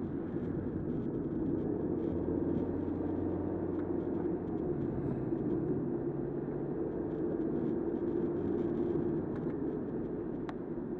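Steady car road and engine noise inside a moving car: a continuous low rumble with an engine hum that shifts pitch a few times. A brief faint high chirp comes near the end.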